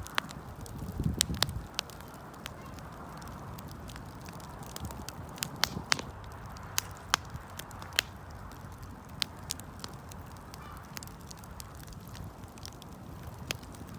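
Wood fire crackling: sharp, irregular pops and snaps over a steady hiss of burning, with a low rumble of flame about a second in.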